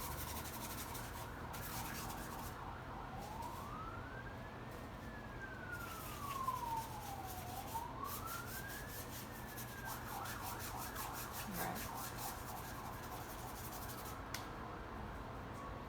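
A faint siren wailing, its pitch rising and falling slowly twice over about seven seconds before it fades out. Around it, faint rubbing of a paintbrush working wet paint across paper.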